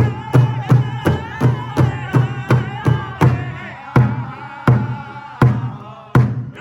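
Powwow drum group singing in high voices over a big drum struck in a steady beat, about three strikes a second. About three seconds in, the beat slows to roughly one strike every three-quarters of a second while the singing carries on.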